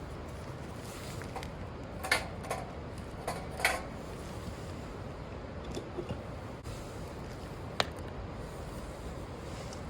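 A few short knocks and clinks, about five in all, most of them between two and four seconds in and one near the end, over a steady low background noise.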